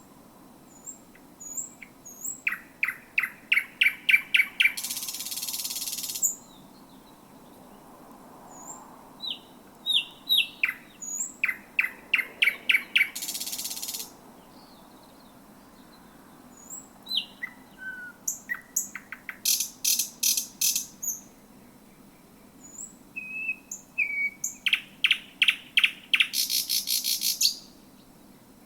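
Thrush nightingale singing close up: four loud song phrases, each a fast run of repeated hard notes ending in a dense rattling trill, with faint high thin notes between phrases.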